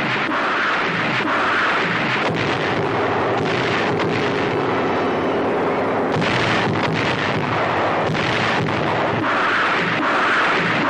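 Barrage of rockets fired from vehicle-mounted launchers: a continuous rushing noise of rockets launching, with a few sharp cracks through it.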